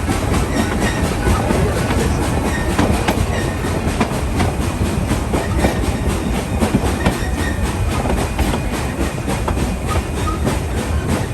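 Narrow-gauge heritage passenger coach rolling along the track, heard from aboard: a steady low rumble with wheels clicking and clacking over the rail joints.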